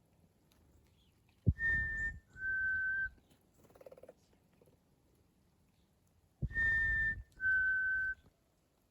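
A person whistling an imitation of the black-capped chickadee's two-note "fee-bee" song, a higher note falling to a lower one, given twice with a breathy puff under each note, to call chickadees to the feeder.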